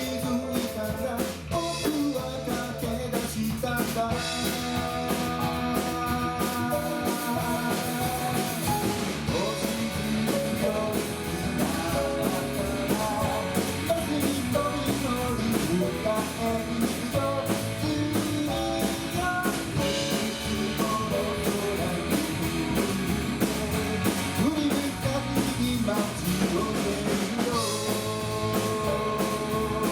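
A live rock band playing a song, with guitar and drum kit and a sung melody line.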